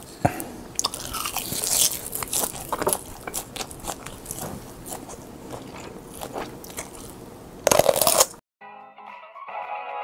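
Close-miked crunching and chewing of crisp seasoned laver (gim), with irregular crackly bites and the loudest crunch near the end. About eight and a half seconds in the eating sound cuts off and music begins.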